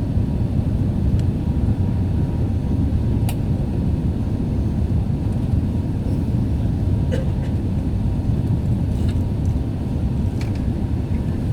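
Steady low rumble of cabin noise inside an Airbus A380 airliner in flight, with a faint steady tone and a few light clicks over it.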